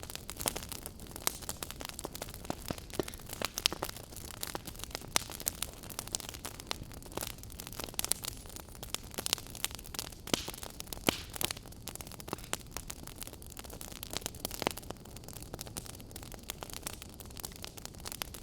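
Wood fire burning in a fireplace: a steady low hiss and rumble with frequent sharp, irregular crackles and pops.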